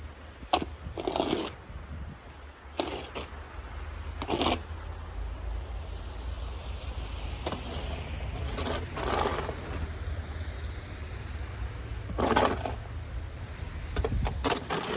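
Snow shovel scraping over pavement, pushing snow in a series of short strokes spaced a second or several seconds apart, over a steady low rumble.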